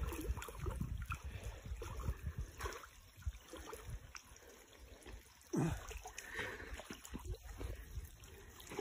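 Faint stream water trickling and gurgling, with small irregular water sounds and a low rumble underneath.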